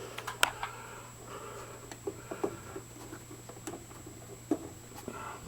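Small irregular clicks, ticks and rustles of hands working electrical wires and twisting plastic wire nuts onto spliced lamp leads, the sharpest click about half a second in. A steady low hum runs underneath.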